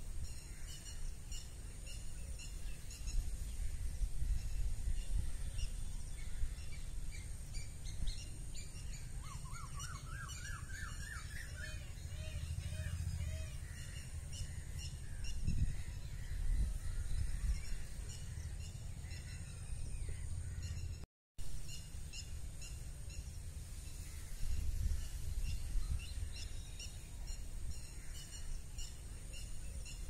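Wild birds chirping outdoors: short high chirps repeating throughout, with a run of lower notes rising in pitch about ten seconds in. Low wind rumble on the microphone underneath, and a brief gap of silence a little past twenty seconds.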